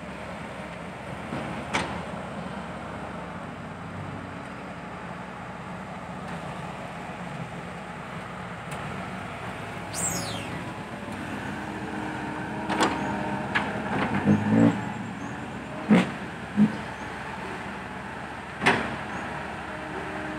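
Diesel dump truck engines running at an excavation site, with several short sharp knocks and bangs over the steady engine noise.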